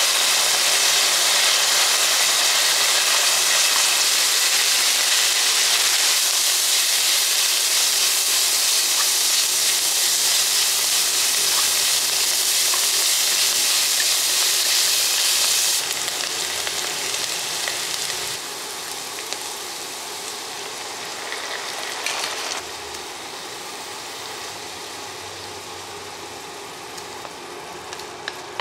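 Diced meat and sliced onion sizzling hard in hot oil in a nonstick pan as they are stir-fried, a loud steady hiss. After about 16 seconds the sizzle drops in steps and goes on more quietly once chopped greens are in the pan, with a few light clicks near the end.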